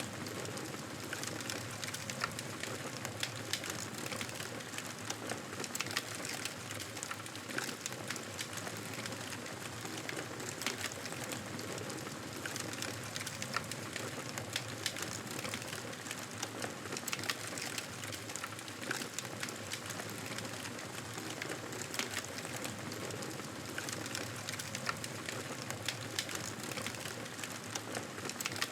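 Wood fire crackling in a fireplace: frequent small irregular pops and snaps over a steady hiss.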